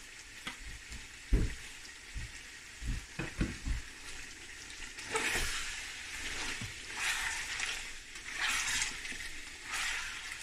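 Chicken pieces and cumin seeds sizzling in hot oil in a stainless steel pan while being stirred with a spatula. A few dull knocks come in the first four seconds. From about five seconds in, louder waves of sizzle and scraping come every second or two as the pieces are turned.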